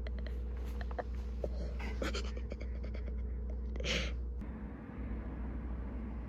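Light rustling and scattered clicks, as of a recording device or clothing being handled, over a steady low hum. There is a louder rustle about four seconds in.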